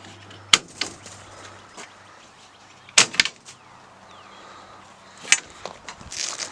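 Latches of a pickup truck's tonneau cover being worked open: a sharp click about half a second in, a quick double click about three seconds in, another click past five seconds, then a rustling as the cover moves near the end.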